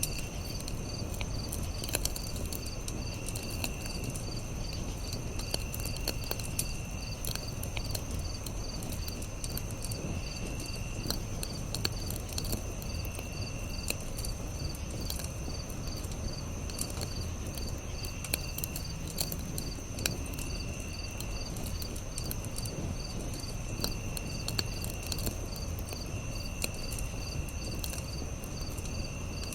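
Campfire crackling, with scattered sharp pops over a low rumble. Crickets chirp steadily throughout, and another insect trills for about a second every few seconds.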